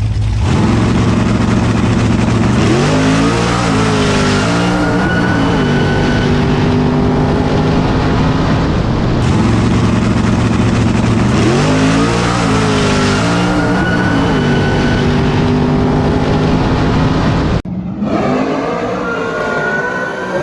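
Drag-racing cars at full throttle, the engine notes climbing and dropping at gear changes twice over, with an abrupt break about three-quarters of the way through.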